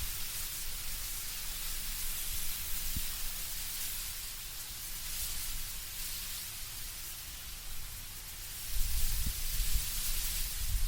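Wind blowing through autumn trees, the leaves rustling in a steady hiss that swells and fades in gusts. A low rumble comes in near the end as a stronger gust arrives.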